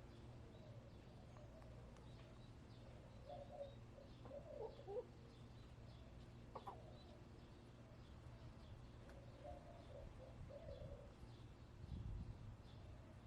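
Backyard hens clucking softly now and then in a few short, quiet calls, over a faint steady low hum. A brief low rumble comes near the end.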